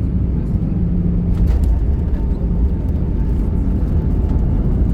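Steady low rumble inside an Airbus A320's cabin: engine and airflow noise heard from a passenger seat, with a faint steady hum over it and a few light clicks.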